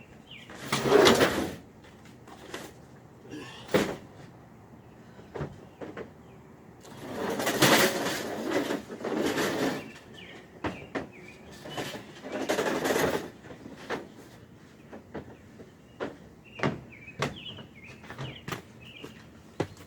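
Small birds chirping, with scattered knocks and clicks and three longer rustling or scraping bursts of handling noise, which are the loudest sounds.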